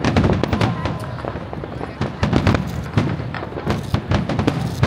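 Aerial fireworks shells bursting in quick succession, a dense run of bangs and crackles that swells in several clusters.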